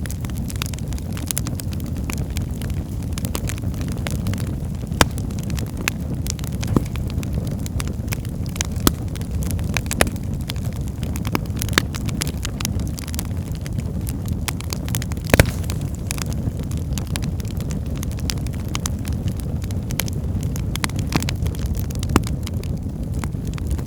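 Wood fire burning in a fireplace: a steady low rumble of flames with frequent sharp crackles and pops, one of them clearly louder about two-thirds of the way through.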